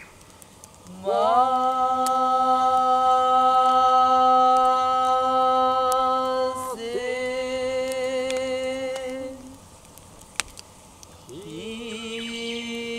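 A single voice chanting long-held vowel notes, each sliding up into pitch and then held steady for several seconds. There are three notes, the second a little lower, with a short pause before the last.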